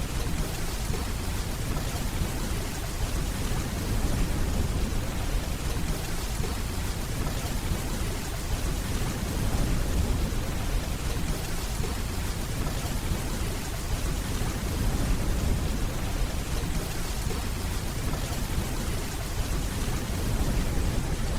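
Steady rainfall with a low rumble of distant thunder beneath it.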